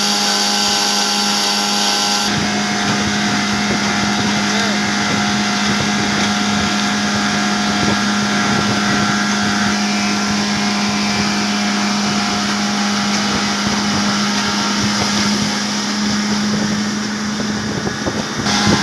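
A machine running steadily with a constant loud hum. Its high-pitched part drops away about two seconds in, and it falters briefly near the end.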